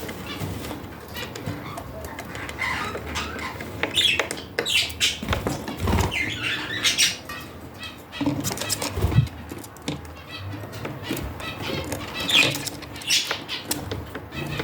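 Budgerigars chirping in short bursts, with wing flutters and scattered clicks. Two low thumps stand out, about six and nine seconds in.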